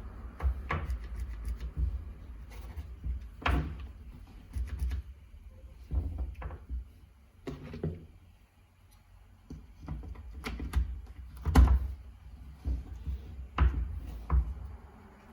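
Irregular knocks and clicks of hard parts being handled and set down, about a dozen spread unevenly with a short lull in the middle; no motor running.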